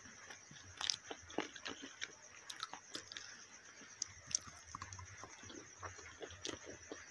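Close-miked chewing and biting of saucy masala chicken wings and chips, with irregular wet mouth clicks and a few soft crunches.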